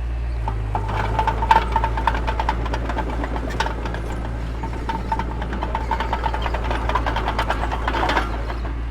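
Heavy construction machine's diesel engine running steadily, with frequent metallic clanks and rattles over it, loudest a second or two in and again near the end.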